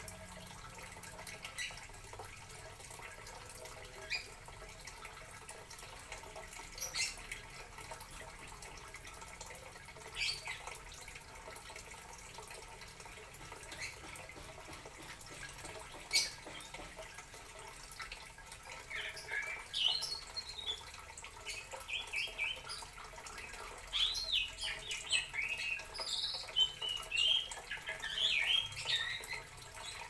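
A bird chirping in quick, short calls through the second half, over a faint hiss, with a few sharp clicks in the first half.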